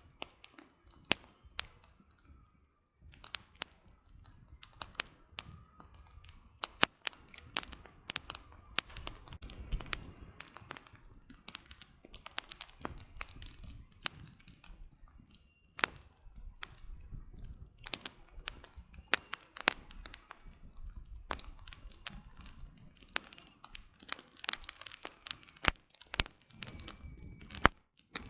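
Campfire of burning firewood crackling: irregular sharp pops and snaps of varied loudness over a soft low rumble of flame, with a brief lull about two seconds in.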